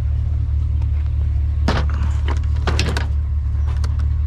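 Pickup truck engine idling with a steady low hum, with a few sharp clunks and clicks about two and three seconds in.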